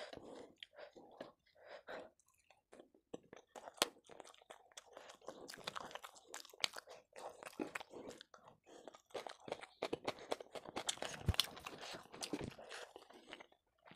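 Close-miked chewing of chicken curry, eaten by hand: wet smacking mouth sounds with irregular sharp clicks.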